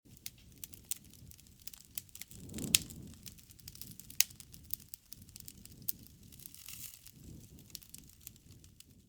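Wood campfire crackling and popping over the low rush of the flames, with a few louder sharp pops, the loudest about a third of the way in.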